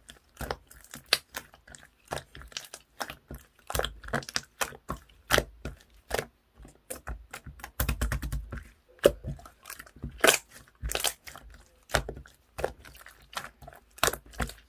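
Pearl slime being kneaded and pressed by hand, giving irregular crisp clicks, pops and crackles with a few denser squishing bursts.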